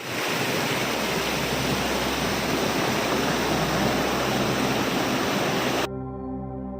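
Steady rush of flowing water, which cuts off abruptly near the end and gives way to slow ambient music with sustained low tones.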